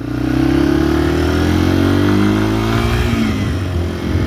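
Motorcycle engine pulling under acceleration, its pitch rising steadily, then dropping about three seconds in as it shifts up a gear and climbing again.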